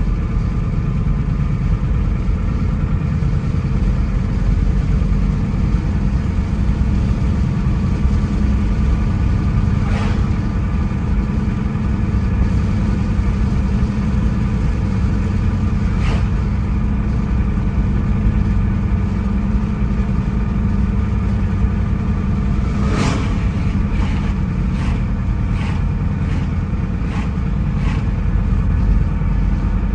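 A car driving along, a steady rumble of engine and road noise. It is broken by a few short sharp knocks or bumps, the loudest about two-thirds of the way through, and a run of smaller ones near the end.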